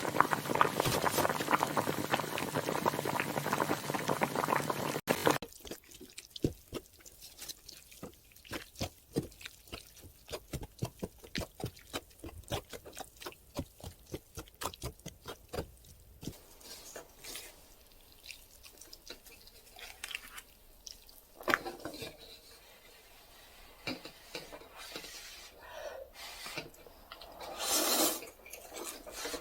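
Wet liquid sounds from instant cup noodles being prepared or handled. A dense, loud, wet noise lasts about five seconds and stops suddenly. It is followed by a fast run of small drips and clicks that thins out into scattered ones.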